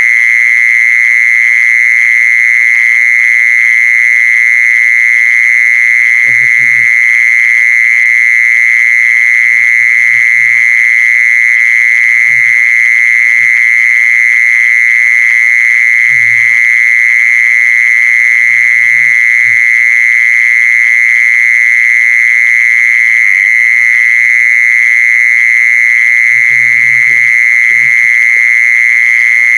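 A singing insect's loud, unbroken high-pitched trill, held on one steady pitch without a pause. A few faint low thuds come and go underneath it.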